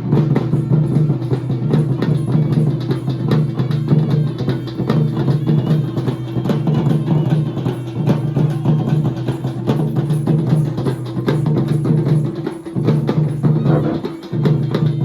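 Traditional tribal drumming: a fast, dense drum rhythm over a steady low tone, with a couple of brief breaks near the end.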